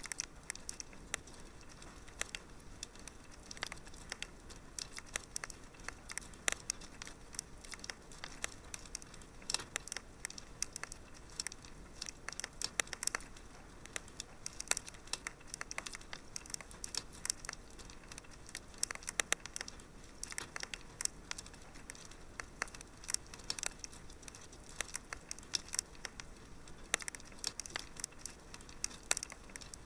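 Wood fire crackling in a fireplace, with many small irregular pops and snaps over a low steady hiss.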